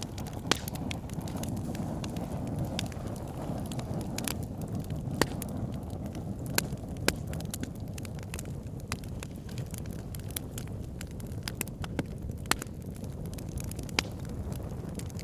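Wood fire burning in a fireplace: a steady low rumble of flames with frequent sharp crackles and pops, a few standing out louder.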